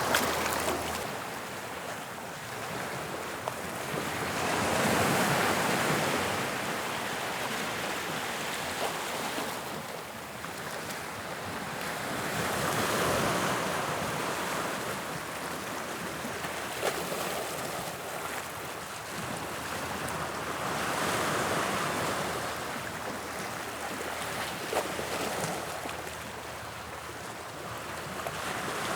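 Sea waves breaking on a beach, the surf swelling and easing in slow surges about every eight seconds.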